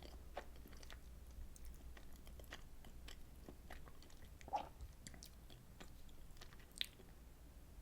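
Close-miked mouth sounds of chewing soft soy sauce butter egg rice: quiet, scattered wet smacks and clicks, with a louder smack about four and a half seconds in and a sharp click near the end.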